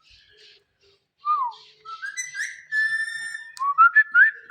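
A series of whistled notes: a short falling note, then rising glides, a held tone of about a second, and quick upward chirps near the end.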